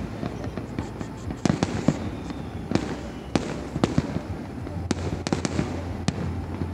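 Aerial fireworks going off: about a dozen sharp bangs at uneven intervals, some in quick clusters, over a steady low rumble.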